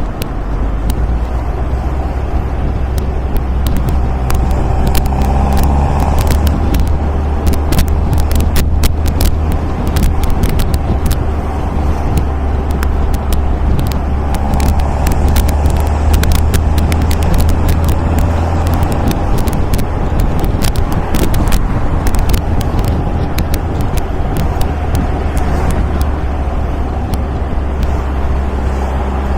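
MG A roadster's four-cylinder engine running steadily while driving on the road, a strong low drone. A run of sharp crackles comes through in the middle.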